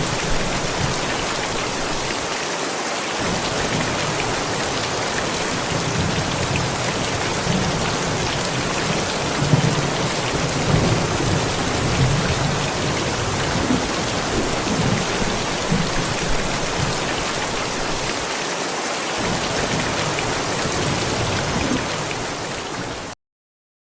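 Steady heavy rain, with low thunder rolling and rumbling underneath it. The sound cuts off suddenly near the end.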